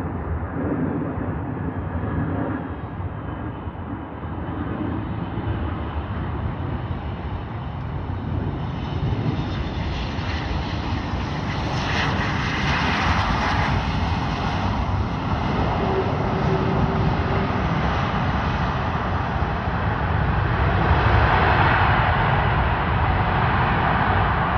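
Boeing 737 MAX 8 airliner's CFM LEAP-1B turbofan engines during landing, a continuous jet engine noise that slowly grows louder and is loudest in the last few seconds.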